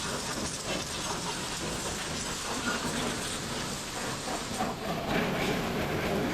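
Water spraying hard onto a car's bodywork during a wash: a steady hiss of spray with spatter.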